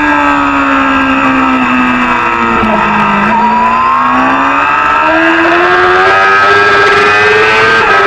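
Supersport 300-class race motorcycle engine at high revs. Its pitch falls for about three seconds as the bike slows, then climbs steadily as it accelerates again.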